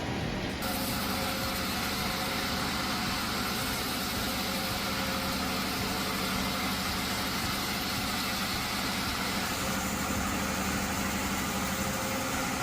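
A machine's engine running steadily at an even pitch, with an abrupt change in the sound about half a second in.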